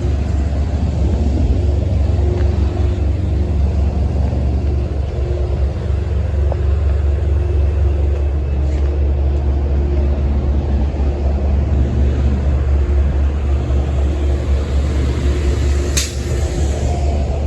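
Steady low rumble of a road vehicle driving, with a single sharp click near the end.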